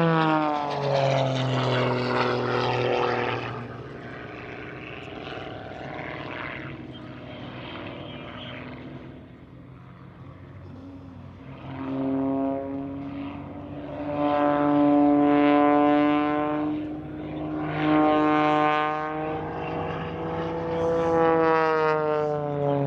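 Propeller airplane flying an aerobatic display. Its engine-and-propeller drone drops in pitch as it passes at the start, fades away, then builds again about halfway through and swells repeatedly with rising and falling pitch as it manoeuvres.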